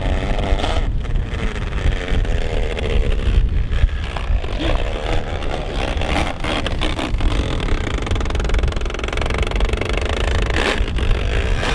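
Traxxas XRT 8S electric 1/5-scale truggy running with stripped gears, its drivetrain making a steady engine-like sound that resembles a rotary engine.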